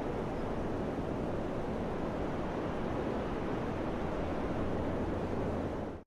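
Steady wind blowing, a dense low rushing noise without gusts or distinct events, which drops out abruptly for an instant at the very end.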